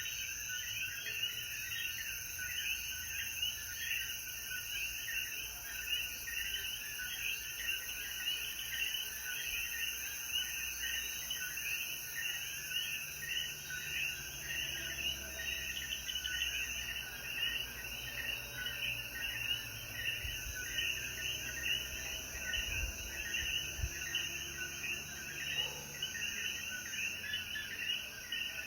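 A dense chorus of Puerto Rican coquí frogs, many overlapping short two-note calls repeating steadily, over a constant high-pitched hiss.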